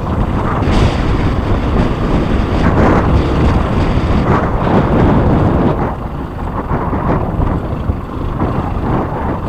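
Noise of a moving vehicle with wind buffeting the microphone, a little quieter from about six seconds in.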